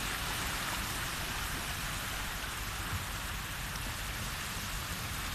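Steady hiss of shallow sea water washing on the beach, with a low, uneven rumble underneath.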